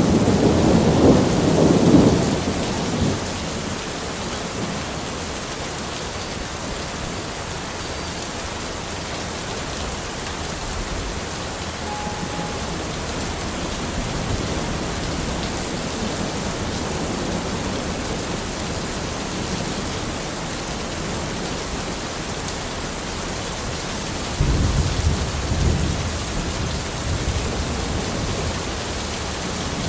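Steady rain falling in a forest, with a low rumble of thunder dying away in the first three seconds and another rumble about 25 seconds in.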